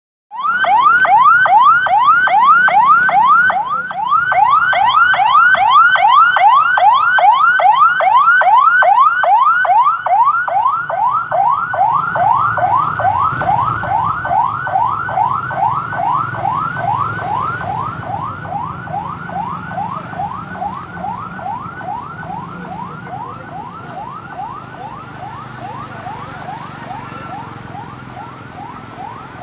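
A vehicle's electronic siren wailing in a fast repeating whoop, about three to four rising sweeps a second. It starts abruptly, then fades slowly from about halfway through as low engine rumble comes in.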